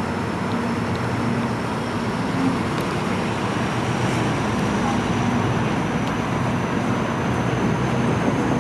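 Suburban commuter train running, heard from an open doorway: a steady rush of wheels and track noise with a low hum, and a faint high whine that slowly rises in pitch as the noise grows a little louder.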